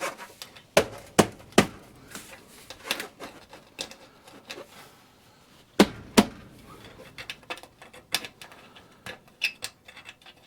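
Irregular sharp clicks and knocks of sheet-metal stovepipe being handled and worked into line so the screw holes match, with two loud knocks close together about six seconds in.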